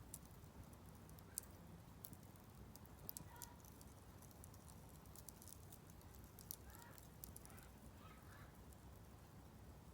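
Wood fire crackling faintly in a Solo Stove Campfire fire pit, with scattered small sharp pops.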